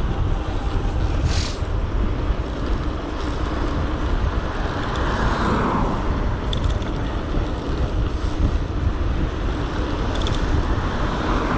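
Wind rumbling on the microphone of a moving bike, over road traffic, with a vehicle swelling past about five seconds in.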